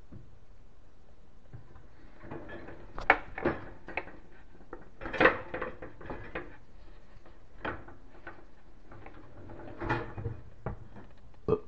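Irregular knocks and clicks of kitchen cabinet hardware being handled while a pull-out basket's slide rails are replaced. They start about two seconds in, and the loudest come a second or three later.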